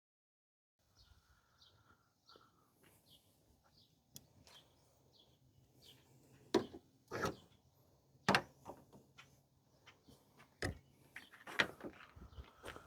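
Faint bird chirps repeating for the first few seconds, with about half a dozen separate sharp knocks or clacks spread through the rest, from parts being handled during bodywork on a car's front end.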